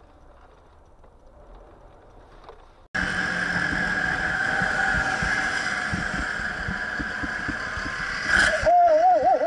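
Faint hum, then suddenly the loud, steady road and engine noise of a moving car. Near the end comes a short sharp bang, followed by a raised, wavering voice.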